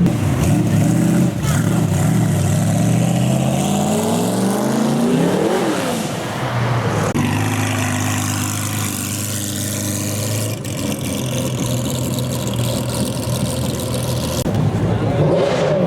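A supercar engine revving up, its pitch climbing for several seconds and then dropping sharply about six seconds in. It then runs at a steady, lower pitch, changing again near the end.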